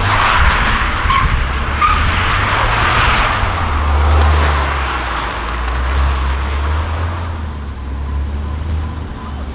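A modified car driving off with a loud, deep exhaust rumble that swells and eases. A harsh hiss rides over it for the first three seconds or so, then fades.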